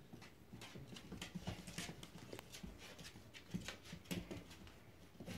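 Puppies moving about and playing: irregular light clicks and scuffles.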